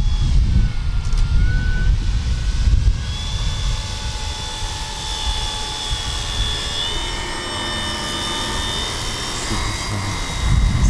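Whine of a battery-powered RC model airplane's electric motor and propeller in flight, drifting up and down in pitch as the plane flies past, with wind rumbling on the microphone at the start and again near the end.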